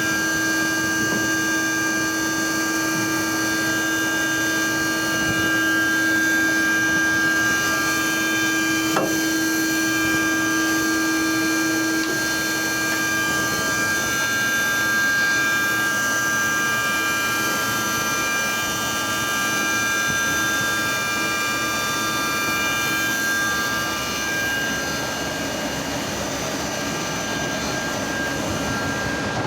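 CNC gear grinding machine running: a steady whine made of several held tones over a continuous grinding hiss. The lowest tone drops out about twelve seconds in and most of the higher tones about twenty-four seconds in, leaving mainly the hiss; a single sharp click sounds about nine seconds in.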